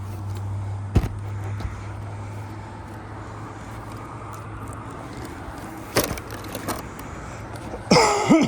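A vehicle's engine idling as a steady low hum that drops away about a second in with a sharp click, then a quieter stretch with a single sharp knock about six seconds in and a brief falling voiced sound near the end.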